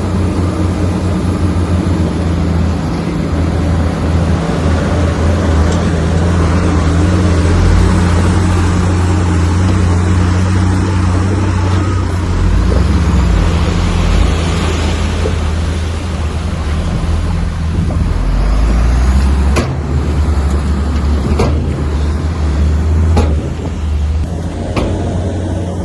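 Heavy diesel engine of a bulldozer running steadily at work, with three sharp metallic clanks about two seconds apart in the last third.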